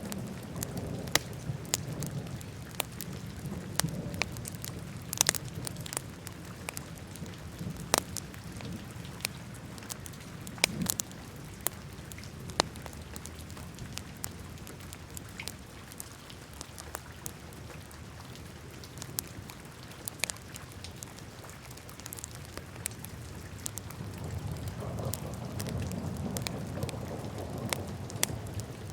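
Wood fire burning in a fireplace: irregular sharp crackles and pops over a low rumble of flames. The rumble swells again near the end.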